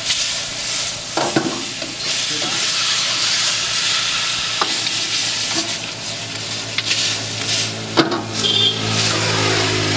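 Chicken pieces sizzling in hot oil in a wok, with a steady hiss broken by a few sharp scrapes and clinks as a metal spatula and ladle stir and toss them against the pan. A low steady hum joins near the end.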